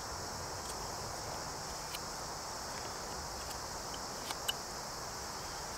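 Steady, high-pitched chorus of insects, with a few faint light clicks, the loudest about four and a half seconds in.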